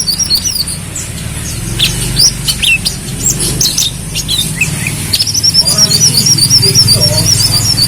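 Brown-throated sunbird (kolibri kelapa) singing: scattered sharp, high chirps, then a fast, continuous warbling trill starting about five seconds in, over a low steady hum.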